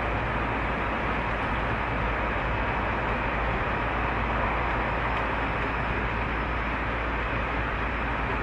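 Tobu 30000 series electric train running along the line, a steady rumble of wheels and running gear at an even level.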